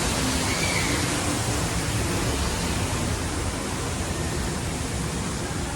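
A steady rushing hiss, even and unbroken.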